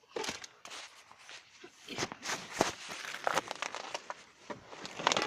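Crinkling, rustling handling noise with many scattered clicks and knocks, busier and louder from about two seconds in.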